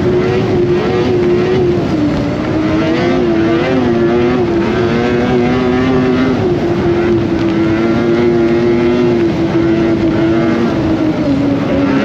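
2025 Polaris Indy Cross Country 600 snowmobile's two-stroke twin engine running under way. Its pitch wavers and dips a little as the throttle changes, with a second, lower engine tone coming and going.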